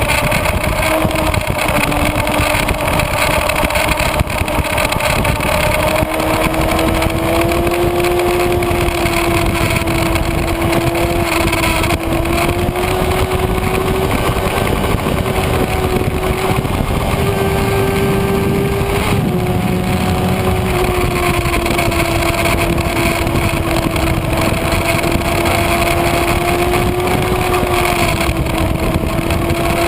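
Kawasaki Ninja ZX-6R inline-four engine running at high revs on a track lap, mixed with heavy wind rush over the bike-mounted microphone. The engine note climbs slowly, dips briefly about twenty seconds in, then holds steady.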